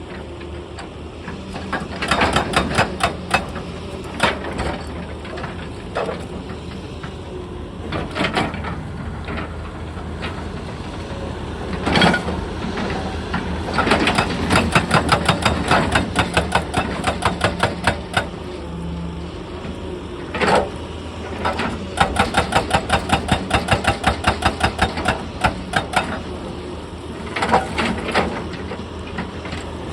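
Excavator's hydraulic breaker hammering rock in bursts of rapid, evenly spaced blows lasting a few seconds each, with single heavy knocks between them. The excavator's diesel engine runs steadily underneath.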